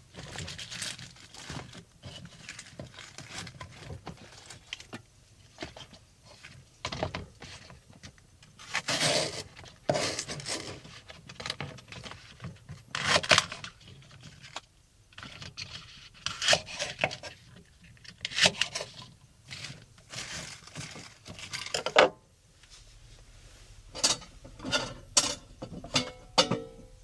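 Irregular clinks, scrapes and rustles of small things being handled, like cookware and utensils.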